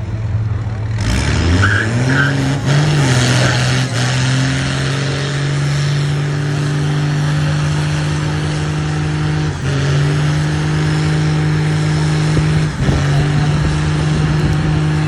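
A car or truck engine revs up about a second in and is held at high revs, with a loud rushing hiss on top, dipping briefly twice.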